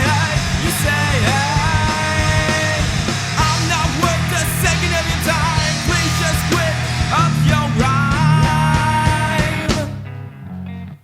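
Progressive alternative rock song with a sung vocal line over distorted electric guitars, bass and drums. About ten seconds in, the full band drops out, leaving a sparse clean guitar part.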